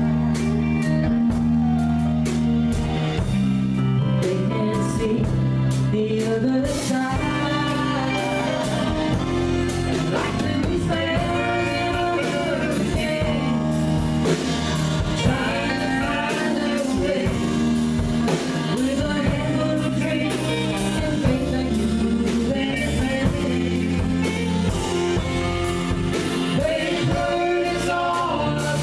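A live country band playing a song, with singing over guitar and a steady beat.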